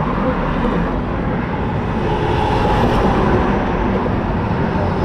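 Motorcycle being ridden on the road, a steady mix of engine and wind noise.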